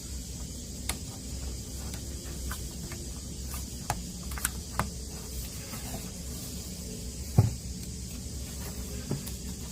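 Scattered light clicks and small knocks of tools and parts being handled while working on a radio cassette player, over a steady low hum and hiss. A louder, duller knock comes a little past the middle.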